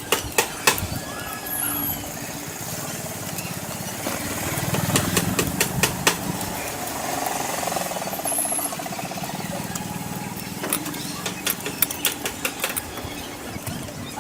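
Close-miked eating sounds: chewing and wet mouth clicks, many of them sharp and irregular, over a low steady rumble.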